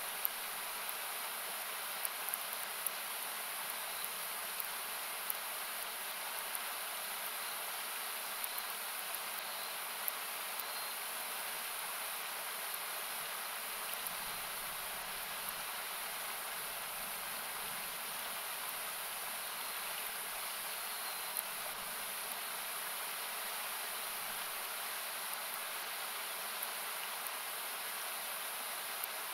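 Steady, noise-like rush of a nearby river, loud enough to dominate, with the sharp crackle and pop of a wood campfire coming through now and then.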